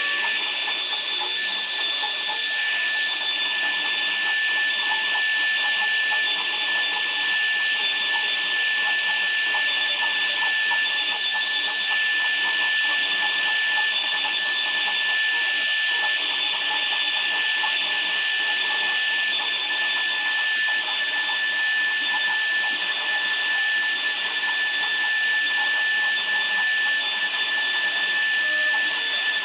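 A woodworking power tool running steadily: an even hiss with one high, steady whine, unchanging throughout.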